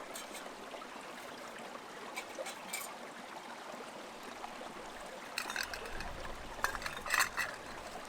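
Steady trickle of a nearby stream, with a few short light clinks of metal cookware being handled at intervals.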